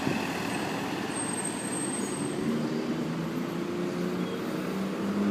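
Road traffic noise with a truck's engine running, its hum coming up about halfway through and growing a little louder toward the end.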